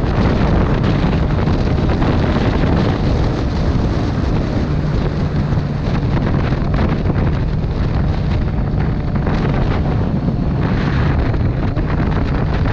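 Motorcycle riding at speed: a steady engine hum under loud wind rushing over the microphone, with the engine note holding steady from about a third of the way in.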